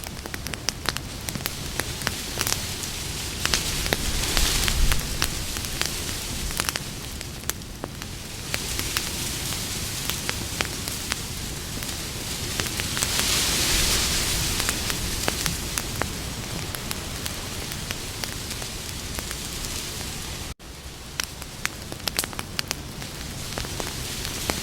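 Campfire burning with steady hissing and many sharp crackles and pops, swelling in intensity a couple of times. A momentary cut in the sound comes about twenty seconds in.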